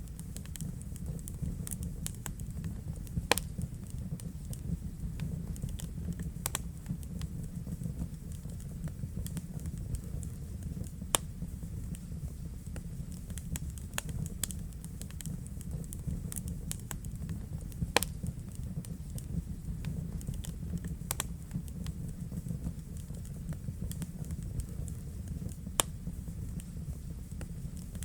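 Wood fire burning in a fireplace: a steady low rumble of flames with irregular crackles and a few sharper pops.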